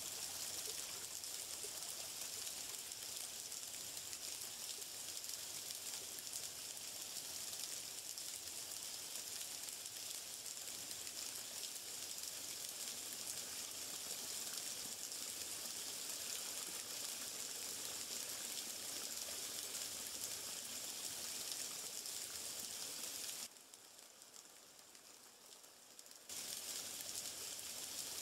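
Steady hiss of running water. It drops away to faint for about three seconds near the end, then comes back at the same level.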